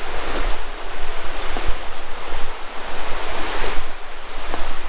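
A river running steadily, a continuous rushing noise, with wind rumbling on the microphone.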